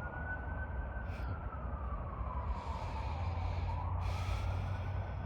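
Emergency vehicle siren in a slow wail, its pitch rising and falling over several seconds, over a steady low rumble, with two short hissing puffs of breath-like noise partway through.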